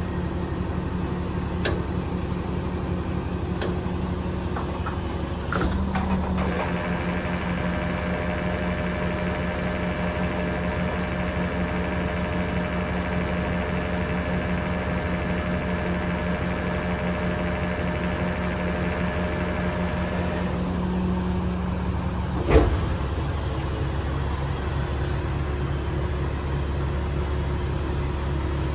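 Cummins 8.9 diesel engine of a Kenworth T370 running steadily at idle. A higher whine joins about six seconds in and stops around twenty seconds, and a single sharp knock comes near the end.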